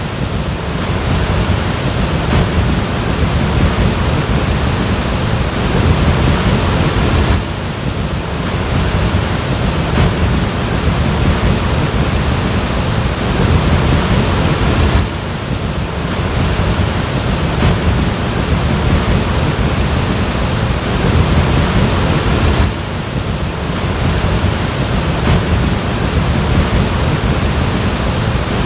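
Loud, steady rushing noise with a heavy low rumble, dipping briefly about every seven and a half seconds.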